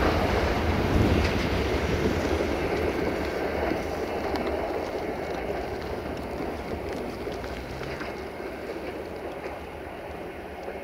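Passenger train coaches rolling away along the track: a steady rumble of wheels on rails with a few faint clicks, fading steadily as the train draws away.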